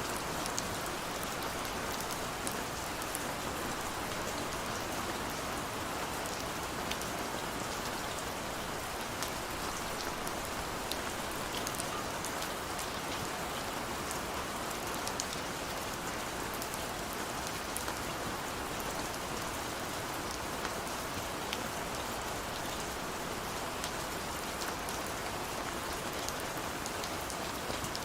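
Steady rain falling, with an even hiss and scattered sharp drop ticks throughout.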